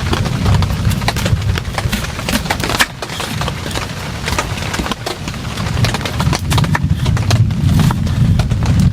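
Heavy rain, with many separate drops tapping sharply on a surface close by, over a steady low rumble.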